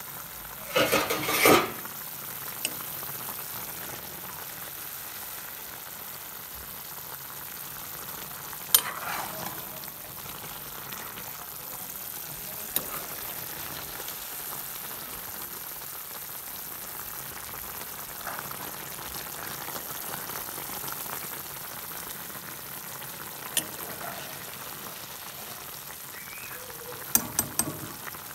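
Frogs cooking in gravy in a kadhai, sizzling steadily. A metal spatula scrapes and knocks against the pan about a second in, twice more in the middle, and several times near the end.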